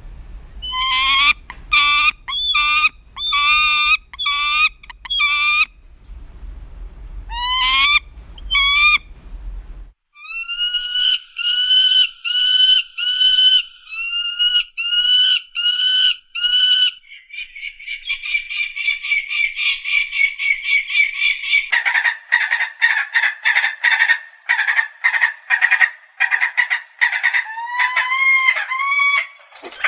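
Peregrine falcon calling: series of harsh, repeated calls at about two a second, then a faster cackling chatter in the second half.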